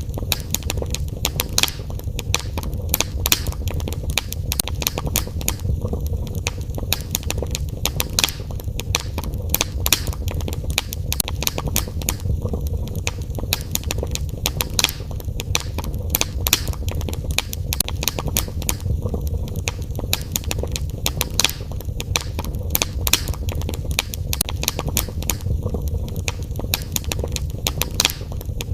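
Wood fire crackling in a fireplace, with frequent sharp irregular pops and snaps over a steady low rumble of the flames.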